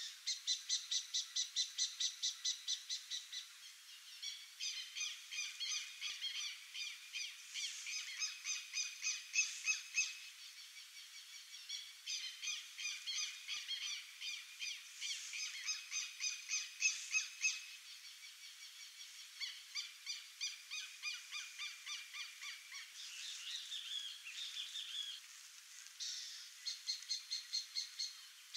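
Birds calling over one another with rapid, evenly repeated high chirps, about five a second. The calls come in runs of a few seconds with short pauses between.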